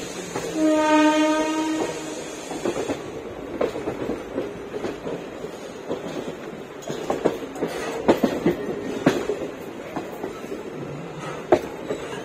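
A train horn sounds once, a single steady blast lasting a little over a second, starting about half a second in. After it come the clack and knock of the train's wheels rolling over rail joints and points, heard from inside a moving train.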